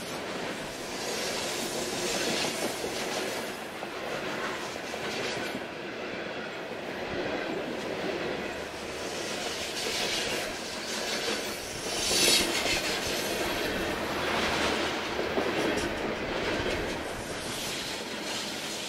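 Freight train of hopper cars rolling past close by, its wheels clattering and rumbling on the rails. About twelve seconds in there is a brief, louder burst of high-pitched wheel noise.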